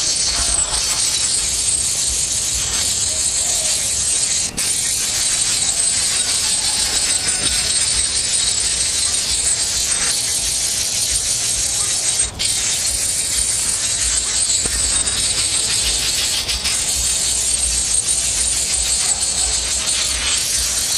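A steady, high-pitched rattling buzz over a low rumble, dropping out briefly twice.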